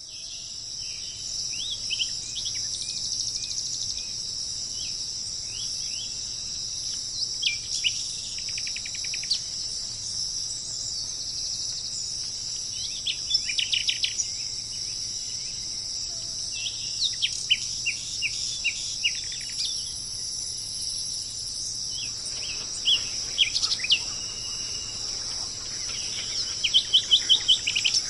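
Small songbirds chirping in short phrases of quick notes every few seconds, over a continuous high-pitched insect drone. The last phrase is a fast run of about six loud notes.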